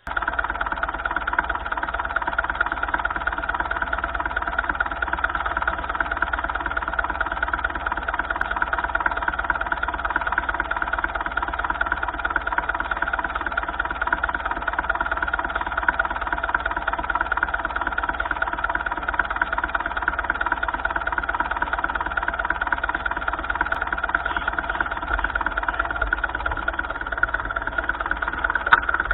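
1955 Ferguson tractor engine running steadily at a constant speed, with a fast, even firing beat.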